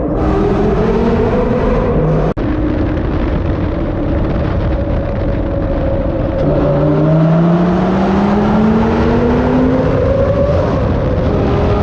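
Lamborghini Gallardo V10 engine pulling under acceleration, its pitch climbing repeatedly as it runs up through the gears, with one long rising pull in the second half.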